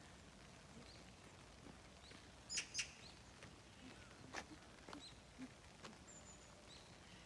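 Near silence with a few faint, short bird chirps; two brief sharp sounds about two and a half seconds in are the loudest thing, with a light click a little later.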